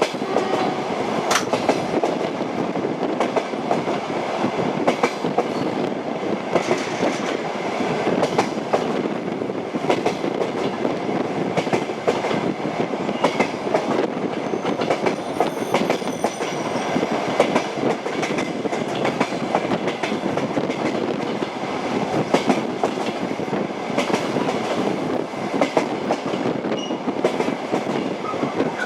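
Train wheels clattering over rail joints, with the steady rumble of a moving railway carriage and irregular sharp knocks throughout.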